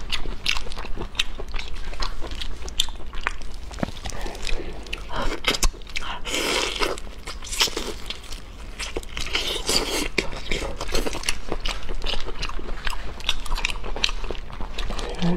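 Close-miked biting and chewing of raw marinated prawns: irregular crunches and crackles of shell giving way between the teeth, with wet chewing.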